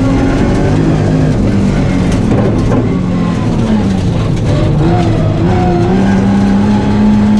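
Nissan 350Z rally car's V6 engine, heard from inside the cabin, pulling hard with its revs rising and dropping through gear changes, then held steady near the end.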